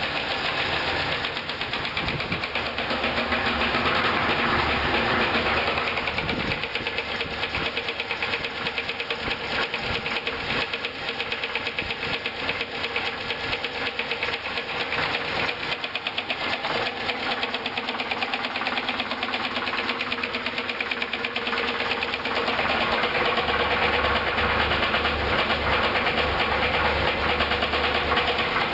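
1965 Buick Skylark's 300 V8 running with a rapid upper-end knock, which the owner suspects is a stuck lifter. The engine gets somewhat louder a few seconds in and again near the end.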